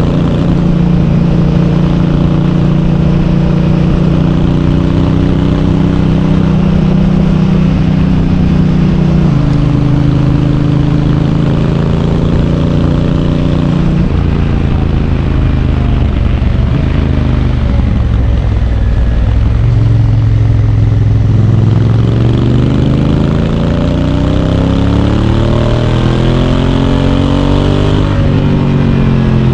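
Honda Africa Twin's parallel-twin engine riding along with its dual-clutch gearbox, the engine note stepping down in pitch about a third of the way in and again near halfway as it shifts up. It then sags and drops low, climbs steadily for several seconds and steps down once more near the end, under a rush of wind and road noise.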